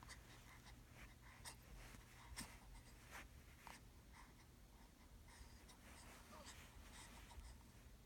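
Near silence with faint, scattered short clicks and scratchy sounds from a sleeping newborn baby, over a steady low hum.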